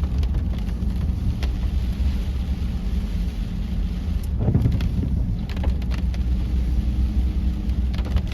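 Inside a car driving in rain: a steady low engine and road rumble, with scattered ticks of rain striking the car.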